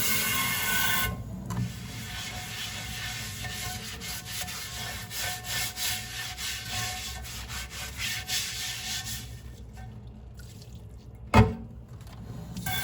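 Hand dishwashing at a sink. Running tap water stops about a second in, then a sponge scrubs and rubs the dishes with small clinks, and one sharp clunk near the end, like a dish being set down.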